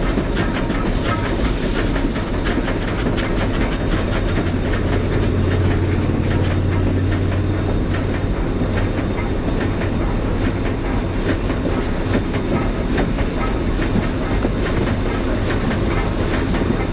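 Train rolling along the track, heard from aboard an open observation car: a steady rumble of wheels on rail with many quick clicks and clacks over joints, and a low drone that swells in the middle.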